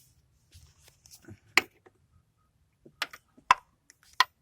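Hoses and engine parts being handled and pushed aside: scattered sharp clicks and knocks, one loud one about a second and a half in and three more near the end.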